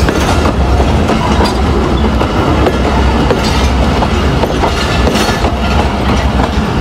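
Passenger coaches of the Tezgam Express passing close by at speed: a loud, steady rumble of steel wheels on the rails, with sharp wheel clicks now and then as the bogies roll over the track.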